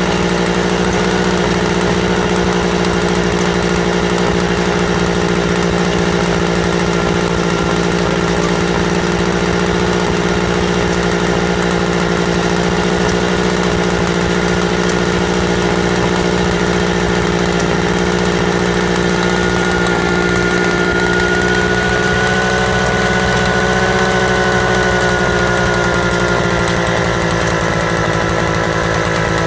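Single-cylinder two-stroke stationary engine fitted with a governor, running steadily. Its speed rises slightly about two-thirds of the way through, then eases back near the end.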